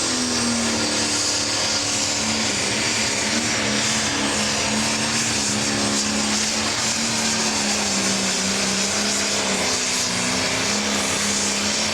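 Pro Stock pulling tractor's turbocharged diesel engine running loud and steady at high revs, its pitch wavering slightly, with a strong high hiss over it.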